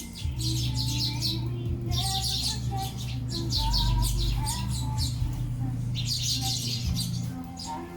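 Sparrows chirping while feeding, in four busy bursts of rapid, overlapping chirps, each lasting about a second and a half. A steady low hum and a faint melody run underneath.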